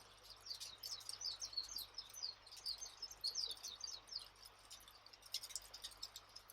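A bird chirping a quick run of short, high, falling notes over a few seconds, over a campfire ambience track; a few sharp crackles from the fire come near the end.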